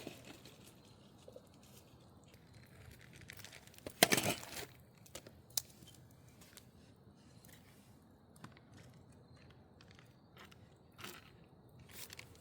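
Scattered handling noises: small clicks and crinkles, with one loud crunching rustle about four seconds in and a few more near the end.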